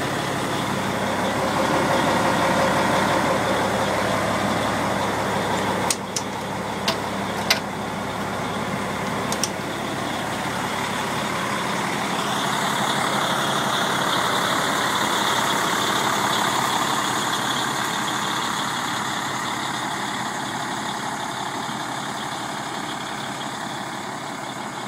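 The 1998 Brindlee Mountain custom fire engine's engine idling steadily, with a few sharp clicks between about six and nine seconds in.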